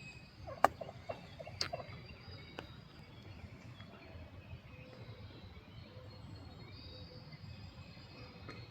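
Wild turkey gobbler gobbling from his roost: two short rattling gobbles about a second apart near the start, each opening with a sharp click. Another lone click comes about two and a half seconds in.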